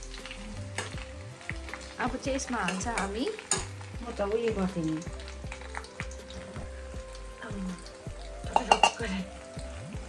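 Chopped ginger and garlic sizzling as they fry in hot oil in a steel kadai. A steel spatula stirs and scrapes against the pan, with a few loud clinks near the end.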